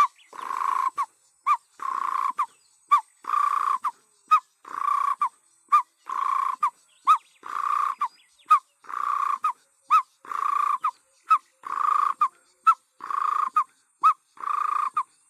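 A man imitating a Cape turtle dove's call by mouth: a short sharp note and a longer note, repeated at an even pace about eleven times. The rhythm is the dove's call that locals render as 'work harder' or 'drink lager'.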